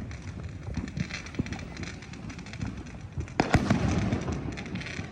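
Scattered firework and firecracker pops, with a louder bang about three and a half seconds in that trails off into about a second of crackling.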